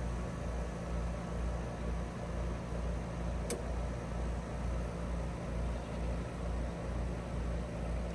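Trane XR14 heat pump outdoor unit running: a steady low hum that throbs about twice a second, with one short click about three and a half seconds in.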